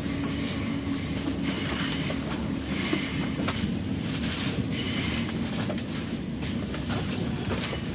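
Passenger train running through a station, heard from inside the carriage: a steady low rumble of wheels on rail. A few brief high-pitched squeals come in the first half and again about five seconds in.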